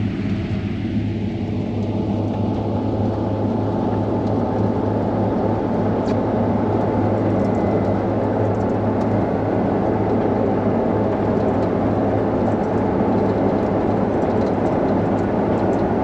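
Steady drone of a combine harvester's engine and threshing machinery heard from inside the cab while it cuts grain, a constant low hum under an even mechanical rumble.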